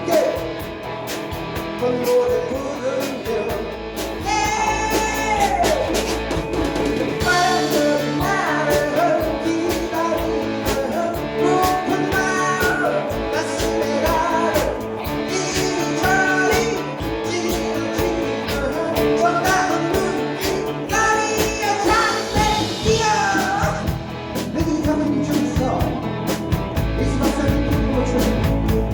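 Live rock band playing with a lead vocalist singing over electric guitars, bass and drums.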